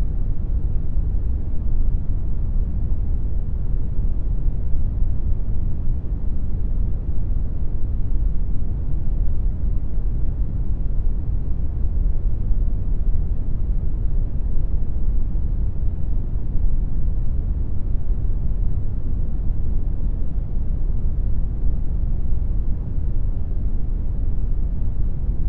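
Synthetic brown noise: a steady, deep rushing hiss, strongest in the bass and fading toward the treble, unchanging throughout.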